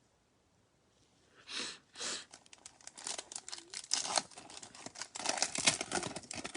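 A foil trading-card pack being torn open and its wrapper crinkled. It starts about a second and a half in as a string of crackling tears and rustles.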